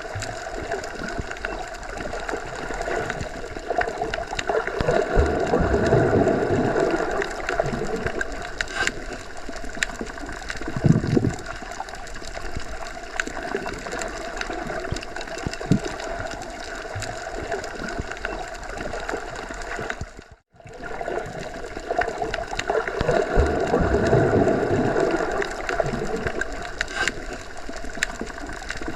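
Muffled underwater ambience: a continuous churning wash with low rumbling swells that rise and fall twice, and a few dull thumps. It cuts out for a moment about two-thirds of the way through.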